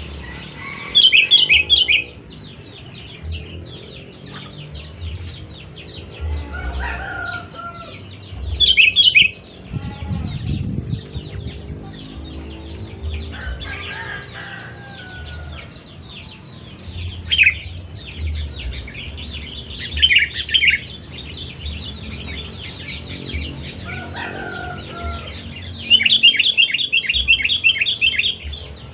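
Sooty-headed bulbul (kutilang) calling loudly in five bursts of rapid repeated notes, the longest near the end. Small birds chirp steadily underneath, and a few lower, gliding calls come between the bursts.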